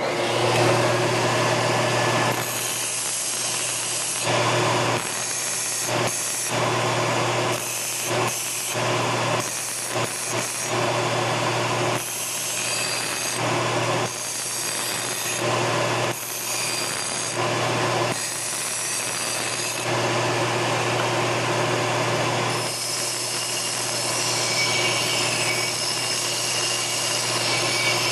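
Large belt sander running, with an aluminum part pressed against the abrasive belt to smooth its sides and deburr its edges. The grinding swells each time the part meets the belt and eases between passes, over the machine's steady hum.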